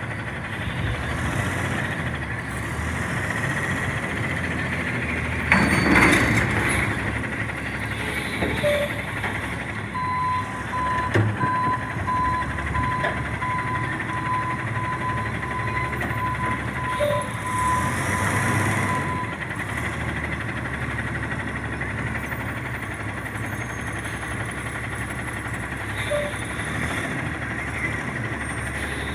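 CNG front-loader garbage truck's engine running, with a loud burst of noise about six seconds in. Its backup alarm then beeps steadily for about nine seconds while the truck reverses.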